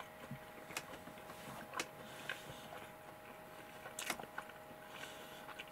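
A person chewing a bite of split-open Chicken McNugget dipped in cheese sauce: a few faint soft mouth clicks and smacks, spaced irregularly, over a faint steady hum.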